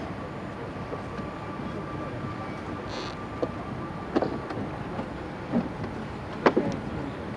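A few sharp knocks of a rowing boat and its gear being handled, over a steady background rumble, with a faint steady whine in the first few seconds.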